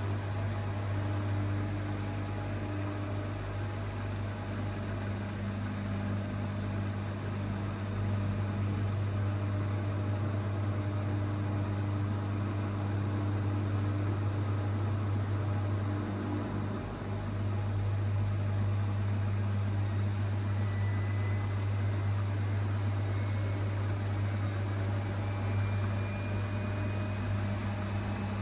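Zanker EFX 4875 washing machine in its final spin, the drum running steadily at high speed with a constant deep hum. A faint high whine rises slightly in the last few seconds.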